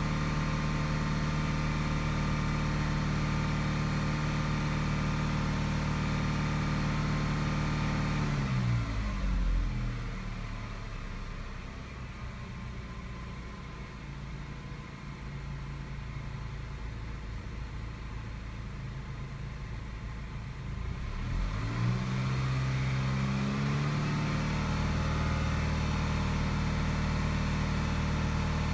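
2015 Chevy Malibu engine running at a steady raised speed, which drops back to a quieter idle about nine seconds in, then revs back up to the raised speed a little after twenty seconds. The engine is being watched on a scan tool for a lean condition, with long-term fuel trim and oxygen sensor readings checked.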